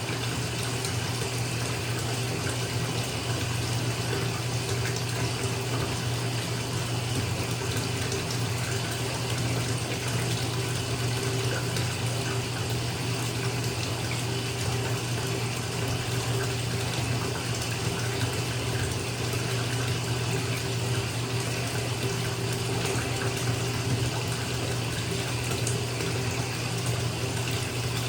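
Bathtub tap running full, water pouring into the filling tub: a steady, unbroken rush over a low hum.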